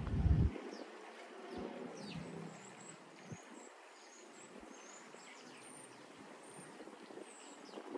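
Small birds chirping faintly in the background, many short high chirps and quick glides, over a steady outdoor hiss. A low rumble fills the first half-second and cuts off suddenly.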